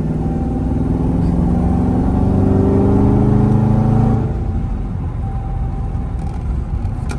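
Dodge Scat Pack Widebody's 6.4-litre HEMI V8 pulling under acceleration, its note climbing steadily for about four seconds. It then lets off and drops back to a quieter, lower cruise.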